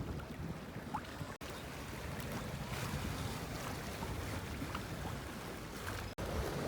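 Wind noise on the microphone and water rushing along the hull of a small keelboat under sail, a steady low rumbling hiss with two very brief dropouts.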